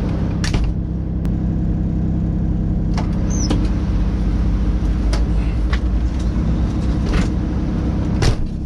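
Semi truck's diesel engine running, heard as a steady low drone inside the cab, with a few short sharp knocks or rattles, the loudest near the end.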